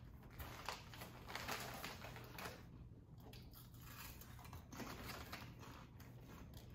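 Faint crunching of potato chips being chewed, in two spells of quick crackly bites, the second starting a little past the middle.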